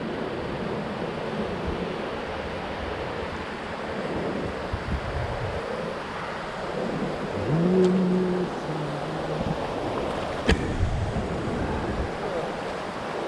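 Steady rushing of the Ganges river's current around a raft, with wind buffeting the microphone. About two-thirds of the way in comes a brief voice call lasting about a second, and near the end a single sharp knock.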